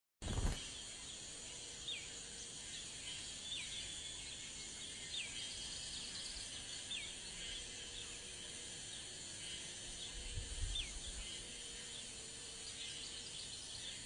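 Short bird chirps, each a quick falling note, repeat every second or two over a steady high insect drone. There is a low thump at the very start, and a brief low rumble about ten seconds in.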